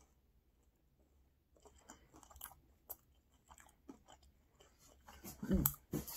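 Person chewing food with the mouth closed, faint soft crunches and mouth clicks, close to the microphone. Near the end, a short hummed vocal sound.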